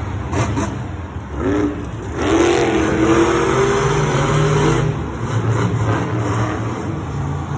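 Monster truck engines racing at full throttle, revving with a pitch that climbs about two seconds in and then holds high.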